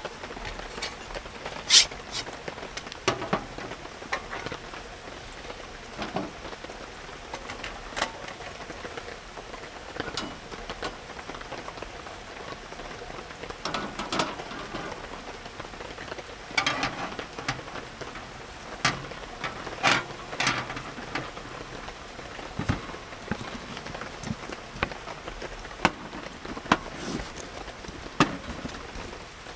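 Steady rain falls throughout. Over it come frequent sharp clicks and clanks, the loudest about 2 s in and again around 17 to 20 s in, as metal camping gear (a rack and a grill frame) is handled and set down on a folding camp table.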